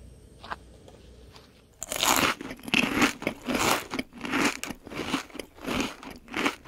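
Crunchy chewing of food, a mouthful being munched: about eight loud crunches at roughly two a second, starting about two seconds in.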